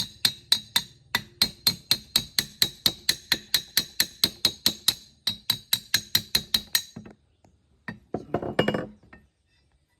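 Rapid hammer blows on metal, about four ringing strikes a second for about seven seconds, then they stop. A short burst of clatter follows near the end.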